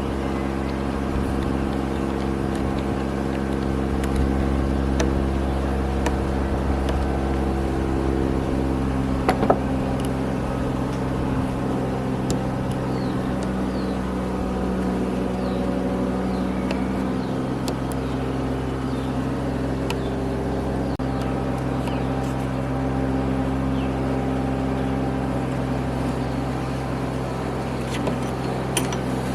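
A motor running steadily with a hum of several held pitches, with a few light clicks over it.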